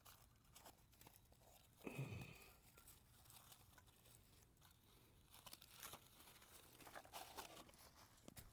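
Faint, scattered rustling and crunching of dry material, with one louder rustle about two seconds in.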